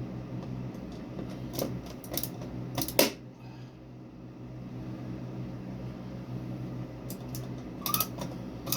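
Sharp clicks and knocks of fixture parts and hardware being handled and fitted, the loudest about three seconds in and another cluster near the end, over a steady low hum.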